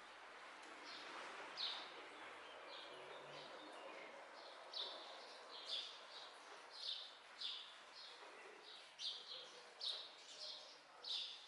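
A bird calling repeatedly with short, high chirps that drop in pitch, about one a second, coming faster in the second half, over a steady background hiss.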